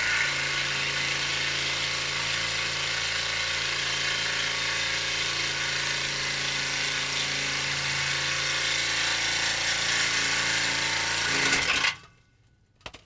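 Reciprocating saw running steadily as it cuts through the exhaust pipe to take the old muffler off, cutting off abruptly near the end.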